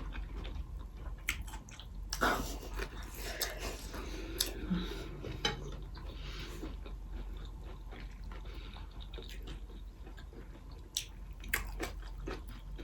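A person chewing and biting into a chicken roll close to the microphone, with scattered sharp mouth clicks.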